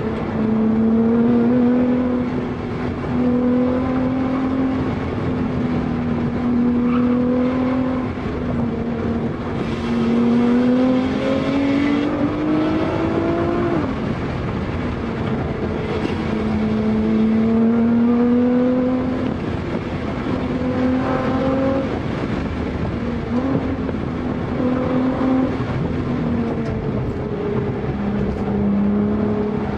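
Sports car engine heard from inside the cabin, driven hard. Its pitch climbs as it revs and drops back at each gear change or lift, with the longest climb ending in a sudden drop about halfway through, over steady road and tyre noise.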